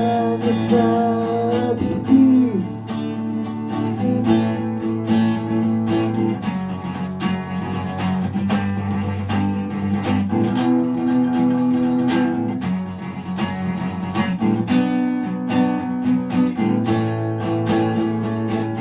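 Acoustic guitar strumming chords in a steady rhythm. A voice holds and bends a last sung note through the first two seconds or so, then the guitar carries on alone.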